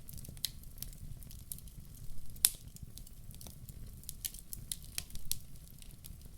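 Wood fire crackling in a fireplace: irregular sharp pops and snaps over a low steady rumble of the flames, with one louder pop about two and a half seconds in.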